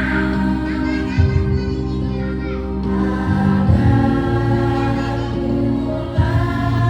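Women's choir singing in unison over an instrumental accompaniment with held low notes.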